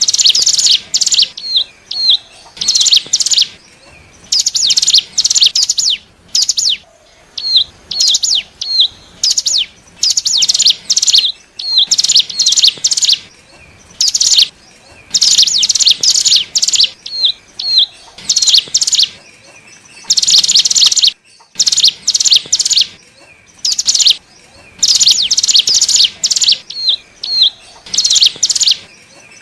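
Ciblek gunung (cigun) lure call: loud bursts of fast, high chattering notes, each about a second long, repeating every second or two with a few single hooked chips between them, as used to draw in wild cigun.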